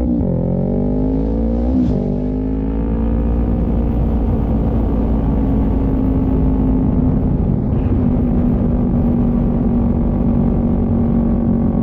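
Motorcycle engine pulling away through the gears: the pitch climbs, drops at a shift right at the start and again about two seconds in, then settles into a steady cruise.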